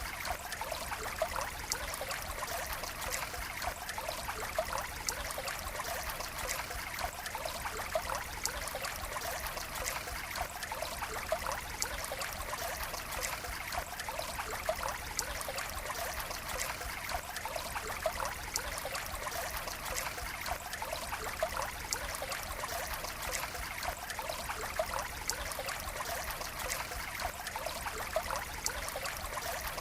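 Water running and trickling steadily, with many small splashes and drips over a constant rushing hiss.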